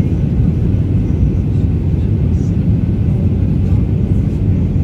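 Steady low rumble of a Boeing 737-800 in flight, heard inside the passenger cabin: engine and airflow noise with no changes.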